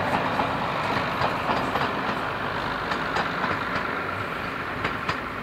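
Three-car Class 117 diesel multiple unit running along the line and away, its engine and wheel noise slowly fading, with sharp clicks from the wheels on the track every so often.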